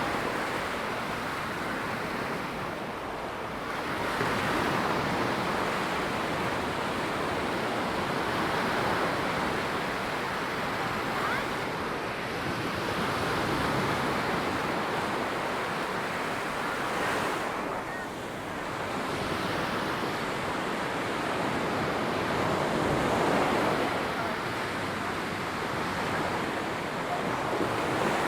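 Ocean surf breaking and washing up on a sandy beach, a continuous rush that swells and eases every several seconds, with some wind buffeting the microphone.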